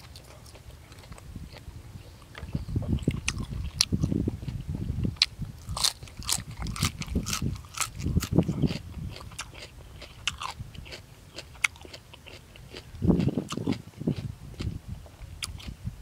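A person chewing a mouthful of boiled buffalo offal, close up, with crunching and many sharp clicks of the mouth. The chewing gets busier about two and a half seconds in.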